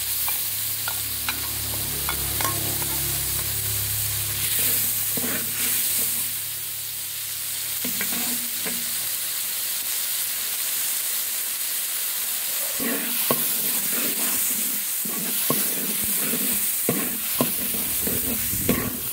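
Blended red chili paste sizzling as it fries in oil in a wok, with a metal spatula scraping and tapping the pan now and then, most often near the end.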